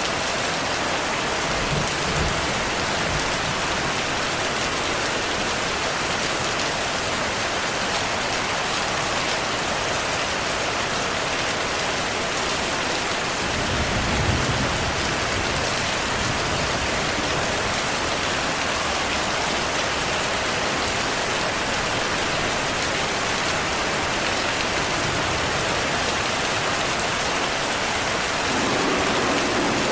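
Steady heavy rainfall with low thunder rumbles: a short one about two seconds in, a stronger one around the middle, and another building near the end.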